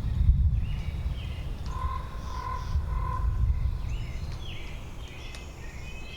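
Winter forest ambience: steady low wind noise, with birds calling over it, a short series of repeated whistled notes and scattered higher chirps.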